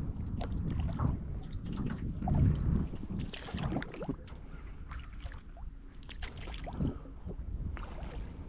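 Canoe on the water with irregular paddle splashes and light knocks, and wind rumbling on the microphone.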